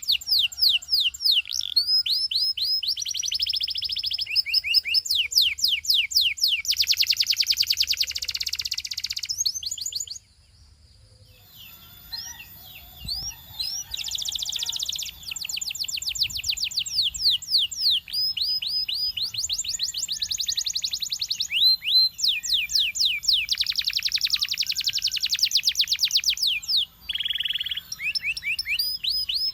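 Belgian singing canary in full song: long runs of rapid repeated chirps and trills. The song breaks off for about two seconds about a third of the way in, then resumes.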